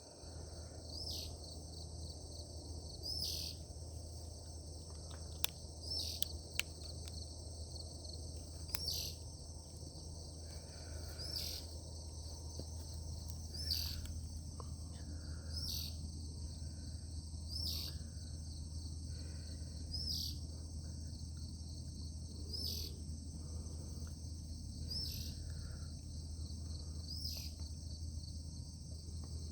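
Crickets or other insects trilling steadily, with a bird repeating a short descending call about every two seconds, over a steady low hum. A few sharp clicks come about five to seven seconds in.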